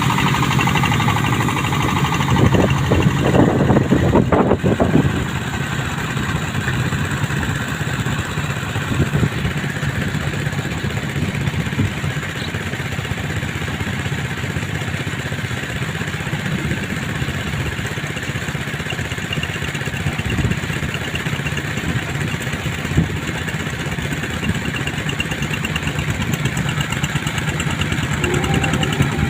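Jet boat's engine running steadily, louder and rising for a few seconds near the start, then settling into an even drone.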